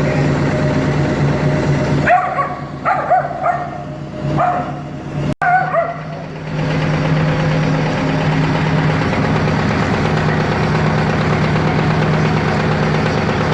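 AVZ-180 rotary-plunger vacuum pump running steadily under test, its oil not yet degassed. For a few seconds in the middle the pump sound drops, and a dog barks several times.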